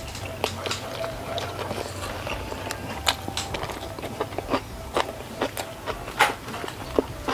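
Close-miked chewing of a mouthful of rice and stir-fried sausage, with wet, irregular clicks from the mouth. The loudest clicks come about three and six seconds in.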